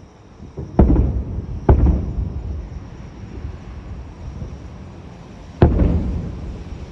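Aerial fireworks shells bursting: three loud booms, two close together about a second apart and a third about four seconds later, each followed by a rolling rumble that fades.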